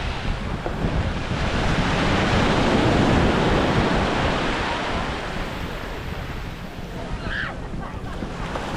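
Waves washing onto a Gulf beach, with wind buffeting the microphone; the wash swells and then eases. A short, wavering high-pitched call comes about seven seconds in.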